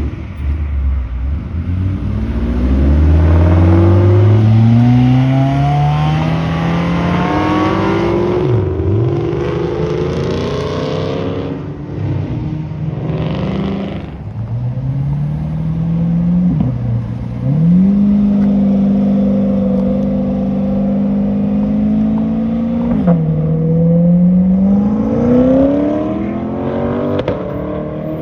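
Boosted car engines accelerating hard, revving up through the gears: the engine note climbs steeply, drops sharply three times as gears change or the throttle is lifted, and holds steady for a few seconds before climbing again.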